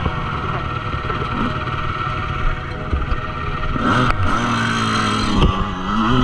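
Motocross bike engine running, revving up and down in the second half.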